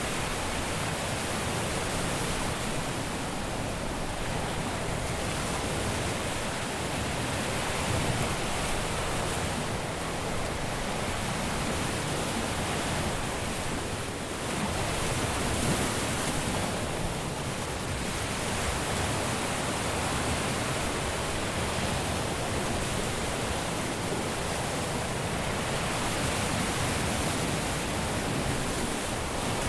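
Caribbean sea waves breaking and washing on a beach: a continuous rush of surf that swells and eases gently every few seconds.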